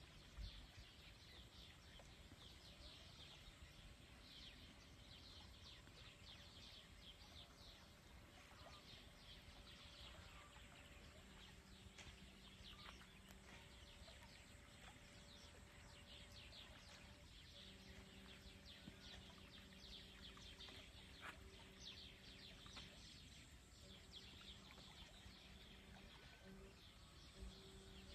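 Near silence: faint lakeside ambience with thin, high bird chirps scattered throughout and a faint low hum that comes and goes.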